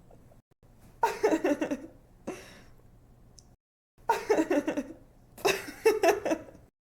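A young woman laughing in bursts of quick pulsed giggles, about four laughs with short gaps between them, cutting off suddenly shortly before the end.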